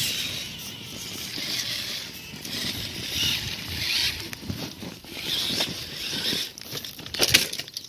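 Electric drive motors and gearing of RC scale crawler trucks whining in swells as they crawl, over a low crunching of tyres on dirt and rock. A few sharp clicks come about seven seconds in.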